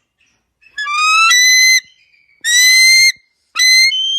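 Eagle screaming: a quick series of four high, whistled calls, each a drawn-out note rising slightly in pitch.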